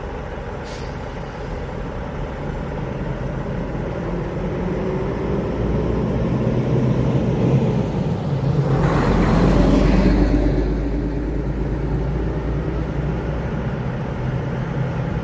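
A large motor vehicle running close by. Its sound builds to a peak about nine to ten seconds in and then eases back down.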